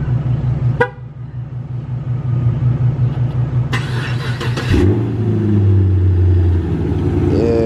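A short horn chirp from the key-fob remote start, then about a second of cranking. The Chevrolet Camaro SS's 6.2-litre V8 then fires up into a loud, deep cold-start high idle that eases slightly about two seconds later.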